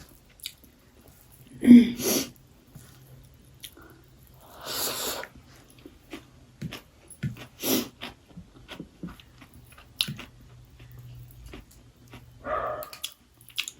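Mouth sounds of eating rice and chicken: chewing with scattered small clicks, a few short breathy bursts, and a couple of brief voiced noises.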